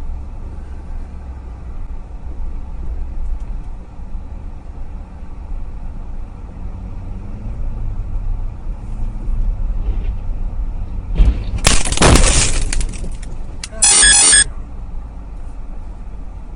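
Vehicle engine and road noise heard from inside a car on a dashcam, steady and low. About eleven seconds in comes a loud crashing noise lasting around two seconds, then a shorter, sharp loud burst near fourteen seconds.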